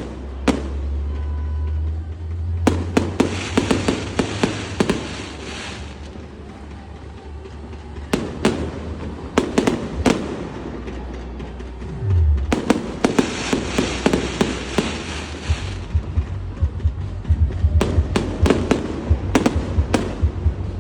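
Aerial fireworks bursting: a long run of sharp bangs, with two spells of dense crackling fizz, a few seconds in and again past halfway.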